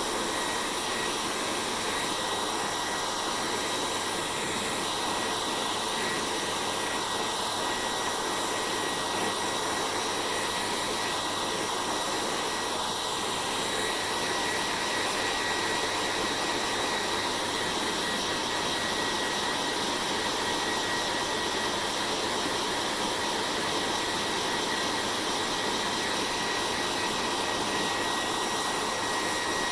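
Hair dryer running steadily: an even rush of blown air with a thin high whine over it.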